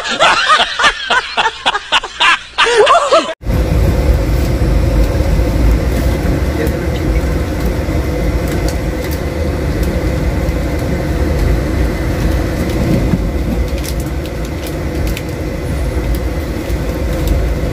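A short burst of laughter cuts off suddenly about three seconds in. It gives way to the steady low rumble of a moving Indian Railways passenger coach heard from inside, with faint crinkling of plastic food packaging being opened.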